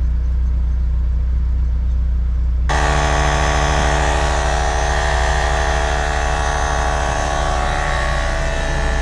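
BMW E36's engine running steadily with a low rumble. About two and a half seconds in it switches abruptly to a fuller, steady drone with many held tones.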